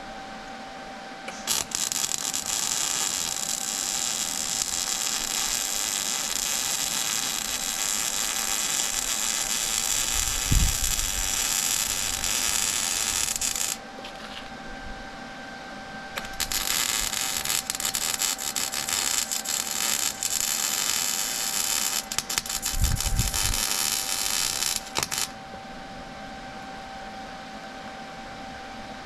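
Pressurised spray hissing in two long bursts, the second stuttering on and off rapidly; part of cleaning and painting metal suspension parts.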